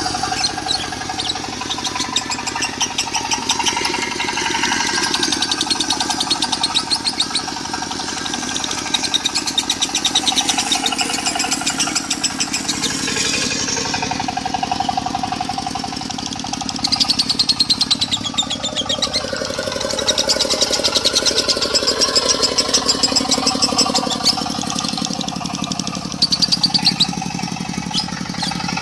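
Lovebird singing in long runs of rapid, chattering trills over a diesel engine running steadily underneath. This is the bird's continuous "konslet" style of song.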